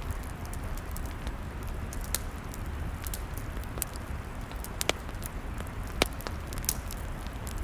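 Log fire crackling: a steady low rumble and hiss with scattered sharp pops, the loudest about five and six seconds in.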